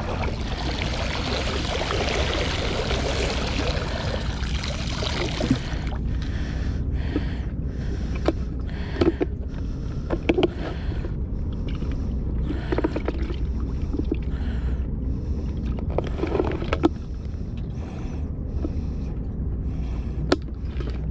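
Wind buffeting the microphone with a steady low rumble. A strong rushing gust fills the first six seconds and then drops away, leaving scattered small clicks and knocks from handling gear.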